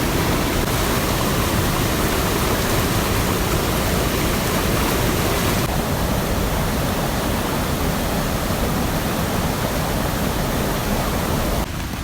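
Mountain stream rushing: a loud, steady wash of water noise with no distinct events. It shifts slightly about halfway through and drops off abruptly near the end.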